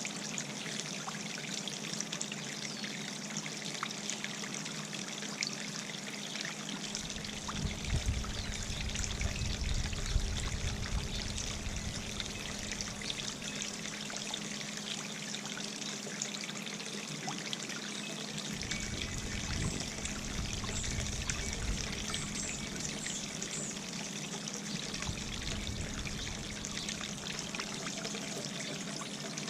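Birdbath fountain's water trickling and splashing steadily. Wind rumbles on the microphone in gusts from about seven seconds in until about eighteen, and again from about twenty to twenty-five.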